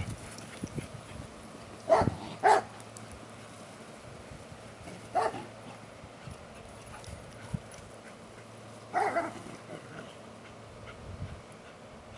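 Dogs playing, with four short barks spaced a few seconds apart.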